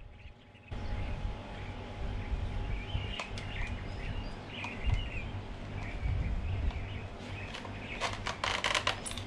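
Small birds chirping over a low steady outdoor rumble, then about eight seconds in a quick run of sharp metallic clicks and clinks as small metal parts are handled.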